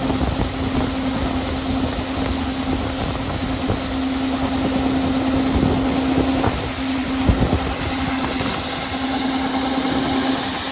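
Combine harvester running steadily while harvesting soybeans: a constant engine and machinery hum, with a few short low buffets.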